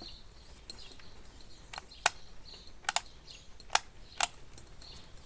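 Plastic hair dryer housing cover being fitted back on: about five sharp plastic clicks and knocks over a few seconds as the cover halves are pressed and snapped together.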